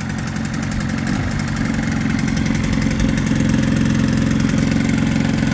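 1980s Mariner (Yamaha) 28 hp twin-cylinder two-stroke outboard running unevenly on only its bottom cylinder: the top cylinder has intermittent spark and mostly misfires. It grows a little louder about two seconds in.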